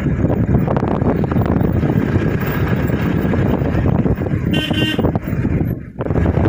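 A steady, loud rushing noise, with a short vehicle horn toot about four and a half seconds in.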